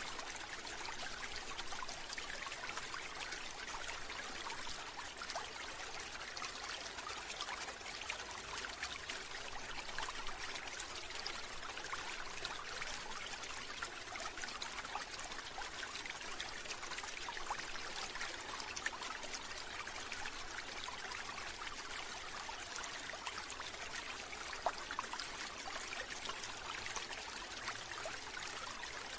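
Steady running water, an even trickling and splashing without pauses, with fine drip-like ticks throughout.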